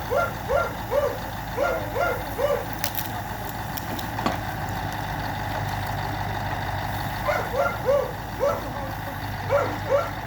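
A dog barking in two runs of quick, short barks, one at the start and one from about seven seconds in, over the steady low hum of an idling truck engine.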